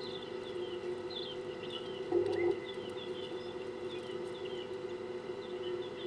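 Small birds chirping at a watering hole: many short, high, mostly falling chirps, several a second, over a steady low hum that swells briefly about two seconds in.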